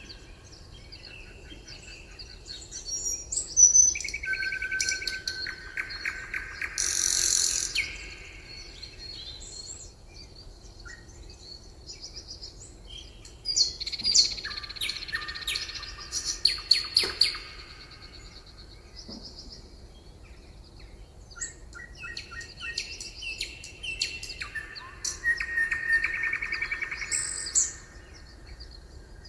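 Songbirds singing in fast trills and rapid runs of high chirps, coming in three bouts with quieter pauses between them.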